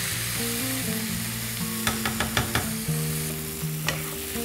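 Ground chili, shallot and garlic spice paste sizzling in hot oil in a non-stick frying pan as it is stir-fried with a spatula, the first stage of sautéing it until fragrant. A run of light clicks from the spatula against the pan comes about two seconds in, with one more near the end.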